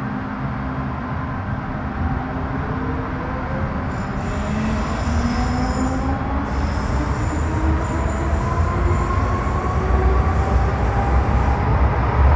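Inside a Metro Cammell M-Train EMU accelerating: the GEC GTO chopper traction equipment whines in several tones that rise steadily in pitch as the train gathers speed, over a growing wheel-and-rail rumble. Thin high squeals join about four seconds in.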